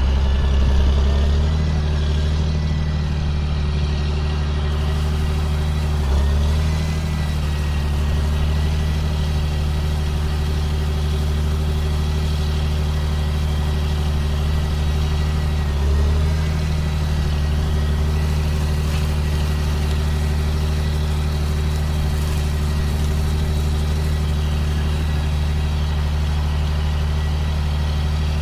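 2005 John Deere sprayer's diesel engine running steadily, with brief swells in pitch and loudness about six seconds in and again about sixteen seconds in.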